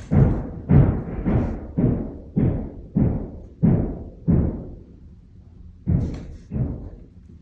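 Construction hammering heard through the apartment building's structure: deep, heavy thuds about two a second, eight in a row, then a pause of over a second before two more.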